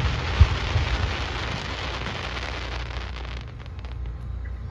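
Fireworks display: a rain-like crackling hiss of burning sparks after the shells burst, fading out about three and a half seconds in, over a low rumble, with one thump about half a second in.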